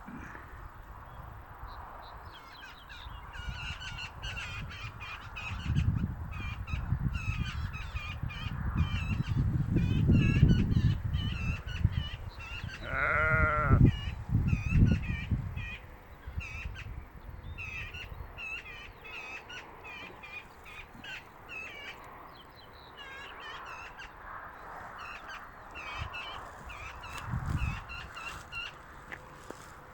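Songbirds chirping and singing throughout, over the low rumble of train wheels on the rails that builds from about six seconds in and fades out by sixteen seconds. In the middle, one loud call slides down in pitch.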